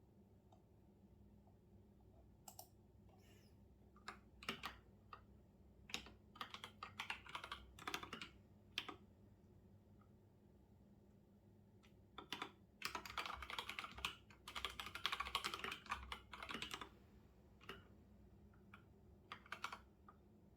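Typing on a computer keyboard in uneven bursts: scattered keystrokes, a run of typing, a pause of a few seconds, then a longer dense run, and a few last taps near the end.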